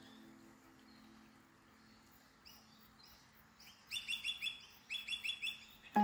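Bird calling: a few faint calls about halfway in, then two quick runs of sharp, rapidly repeated chirps, about seven or eight a second.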